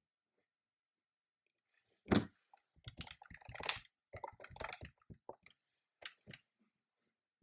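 A burst of typing on a computer keyboard: irregular clusters of key clicks that start about two seconds in, the first stroke the heaviest, and thin out to a few single clicks near the end.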